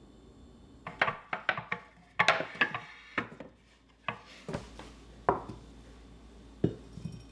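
Objects being handled and set down: a quick run of clicks and knocks about a second in, then a few single knocks spaced out toward the end, over faint background music.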